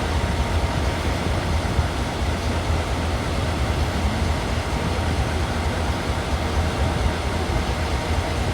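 DE10 diesel locomotive's engine idling with a steady low rumble.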